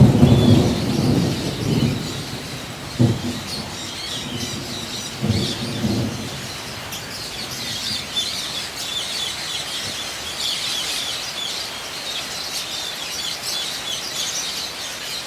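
A flock of lovebirds chattering: many short, high-pitched chirps overlapping without a break. A louder low, muffled sound fills the first two seconds, and there are sharp knocks about three and five seconds in.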